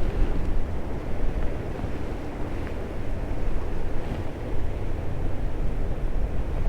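Steady rushing of a small creek's running water, with wind rumbling on the microphone.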